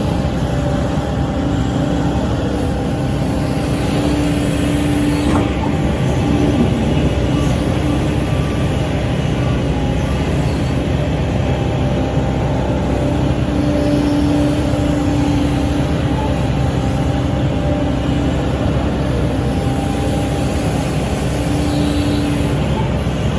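SANY SY135C excavator's diesel engine running steadily under working load, with a hum that swells and fades several times as the hydraulics work.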